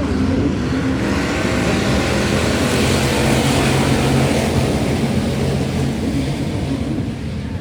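Race car engine running hard on track, a steady loud engine note that swells briefly around the middle.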